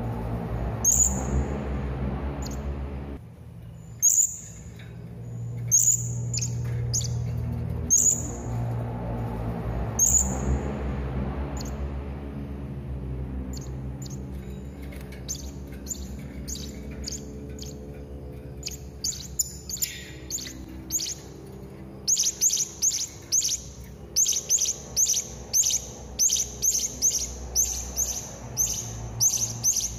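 Serindit (hanging parrot) calling: thin, high single chirps about every two seconds over a low steady drone that fades by the middle, then, about two-thirds of the way in, a fast run of sharp chirps, several a second.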